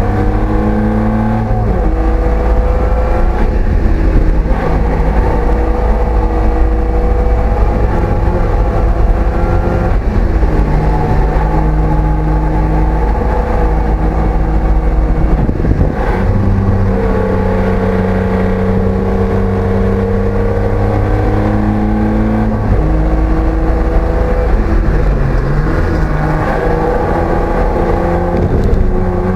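BMW E30 race car's engine at full throttle, heard from inside the cabin. Its pitch climbs through each gear and drops back at several shifts, over steady wind and road rumble.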